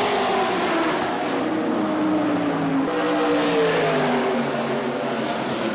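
Sports sedan race cars passing at speed, several engines sounding at once, their pitch dropping as they go by.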